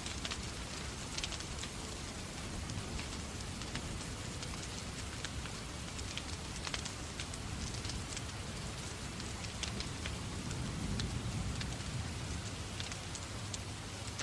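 Steady rain mixed with a crackling wood fire in a fireplace: a constant hiss with scattered sharp crackles and pops over a low rumble that swells slightly near the end.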